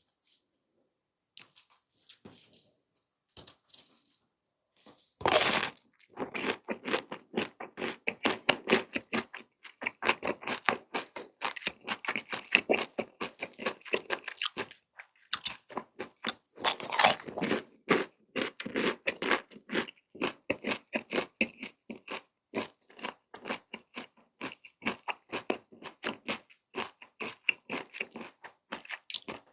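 Close-miked chewing of crunchy food. A loud crunching bite comes about five seconds in and another near the middle, with steady rhythmic crunching chews in between and after.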